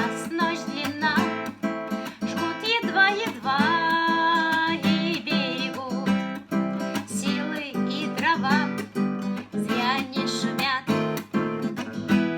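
Acoustic guitar strummed in a steady rhythm, with a gliding melody line over the strumming, as accompaniment to a Russian song.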